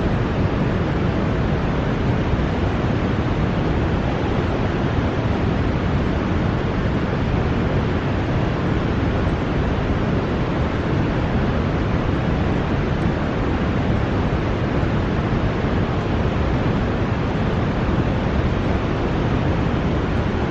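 Fast, high water rushing through a river channel below a dam that has just opened its gates: a loud, steady, unbroken rush with no change in level.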